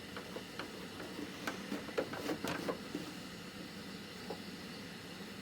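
Faint steady hiss with a scattering of light clicks and taps, bunched around the middle.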